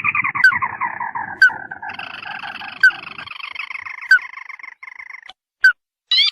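Recorded lure calls of ruddy-breasted crakes: a long, harsh trill falling steadily in pitch, joined about two seconds in by a second trill that stops a little after five seconds. Short sharp call notes repeat about every second and a half throughout.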